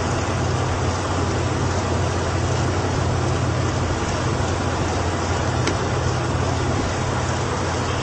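A vehicle driving in rain: a steady low rumble of engine and road under an even hiss.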